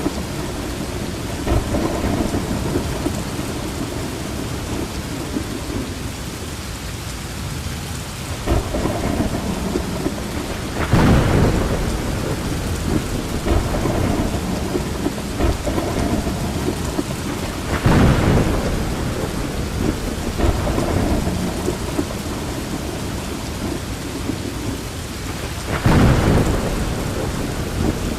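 Steady rain with rolling thunder; three louder swells of thunder stand out, a little before the middle, past the middle, and near the end.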